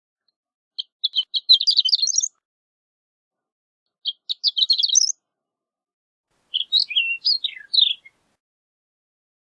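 Horned lark singing: three short phrases of quick, high, tinkling notes, each a second or two long, with pauses between. The first two phrases rise in pitch at the end.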